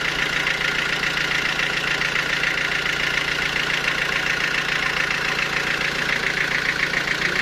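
Sawmill machinery running steadily: a continuous mechanical drone with a low hum and a fast, even chatter in the upper range.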